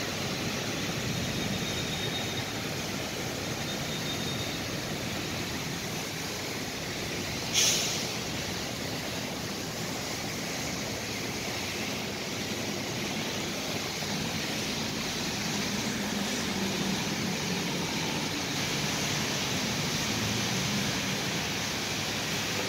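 Steady hiss of heavy rain with traffic swishing slowly through a flooded street. One short sharp knock about seven and a half seconds in.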